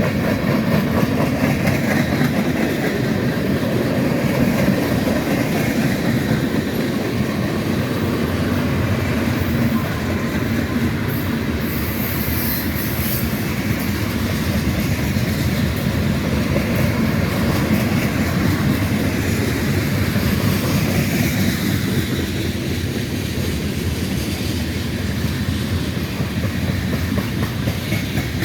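A train's cars rolling past, a steady rumble and clatter of steel wheels on the rails, with a brief high-pitched squeal about twelve seconds in.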